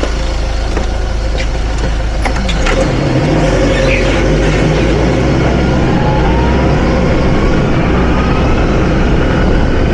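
Hyster H100FT forklift's engine running, picking up revs about two and a half seconds in and holding them, with a few light clicks before the rise and a faint rising whine later on.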